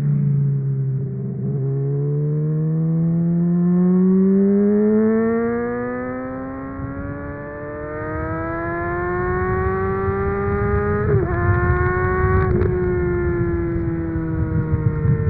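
Honda CBR600RR inline-four engine through a MIVV Suono aftermarket exhaust, pulling under throttle with its pitch climbing steadily for about nine seconds. Two quick breaks in the tone come near the end, then the engine eases off and the pitch slowly falls, with wind rumble underneath.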